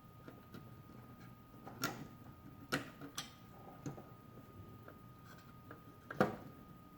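Light ticking and several sharp clicks and taps from small parts and tools being handled while working on a toy bank's mechanism, the loudest knock about six seconds in, over a faint steady high-pitched tone.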